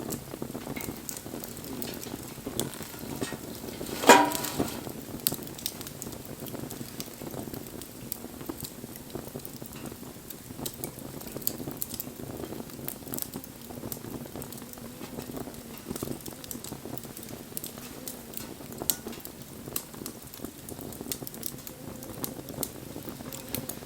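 Wood fire crackling and hissing, with scattered sharp pops. About four seconds in comes one loud, brief pitched squeal.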